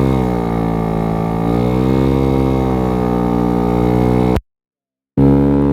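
Df50sst scooter engine running while riding, its note dipping and rising a couple of times with the throttle. The sound cuts out completely for under a second near the end, then the engine comes back.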